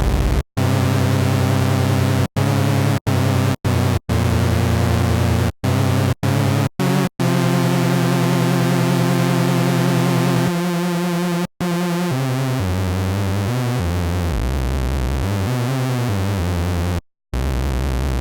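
Sylenth1 software synthesizer playing a buzzy square-wave lead whose pulse width is swept by an LFO, so the tone wavers. Held notes are broken by short gaps, with the pitch stepping between notes in the second half. It is already close to an Artcore gabber lead sound.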